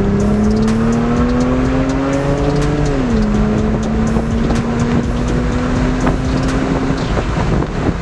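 Lexus IS300's 2JZ inline-six with an aftermarket Y-pipe exhaust, accelerating hard under a wide-open-throttle pull. The engine note rises for about three seconds, drops sharply at an upshift, then pulls on in the next gear.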